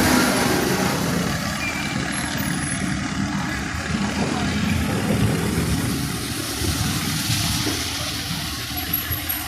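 Road traffic in heavy rain: vehicle engines and tyres running on a wet road under a steady wash of rain noise.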